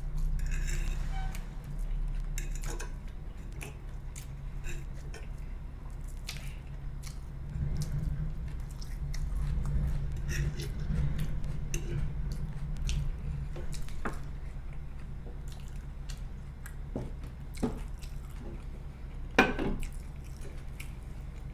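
Utensils clicking against a plate and eating sounds over a steady low rumble from a garbage truck's engine just outside the window. A louder clack comes near the end.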